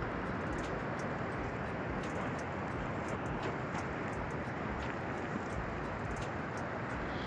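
Steady road and engine noise of a Toyota Sienna minivan driving on the highway, heard from inside the cabin, with faint scattered ticks of light rain on the glass.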